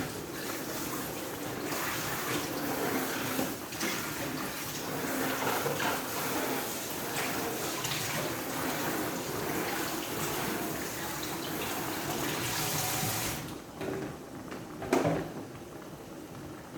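Water running from a kitchen tap into a sink as a steady rush, shut off about three-quarters of the way through, followed by a couple of short knocks.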